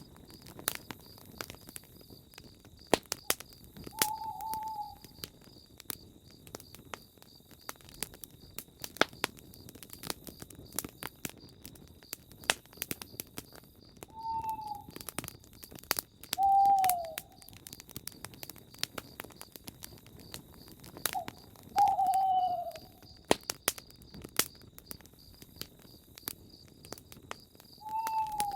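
Campfire crackling with frequent sharp pops, while an owl gives short, slightly falling single hoots about six times, several seconds apart. A steady high pulsing trill runs underneath.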